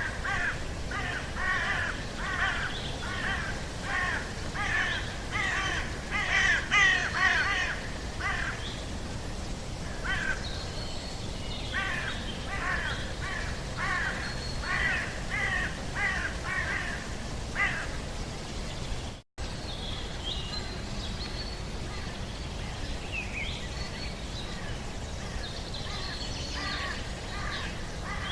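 Birds giving runs of harsh, repeated calls, about two a second, through the first eight seconds and again from about twelve to eighteen seconds, over a steady background hiss. The sound cuts out for an instant about two-thirds of the way through, and after that only fainter, thinner calls are heard.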